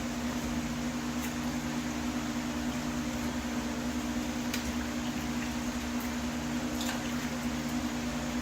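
A steady mechanical hum, like a fan or small motor running, with a few faint ticks about a second in, near the middle and about two-thirds through.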